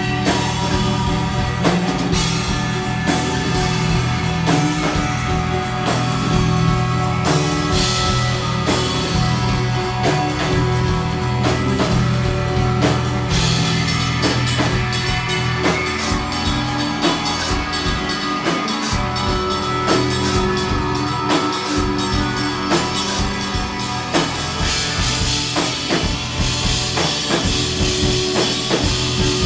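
A rock band playing live, drum kit driving a steady beat under guitars.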